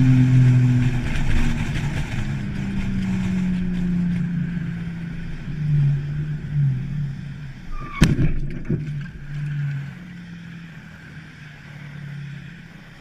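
A car engine running steadily, with one sharp bang about eight seconds in, after which the sound is quieter.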